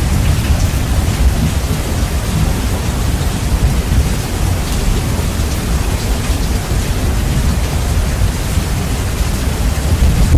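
Steady heavy rain, bass boosted and distorted so that a loud low rumble lies under the hiss of the rain.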